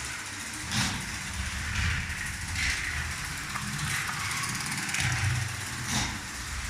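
Lego 7750 12-volt train locomotive's electric motor running along the track, a steady low hum with a sharp click about once a second.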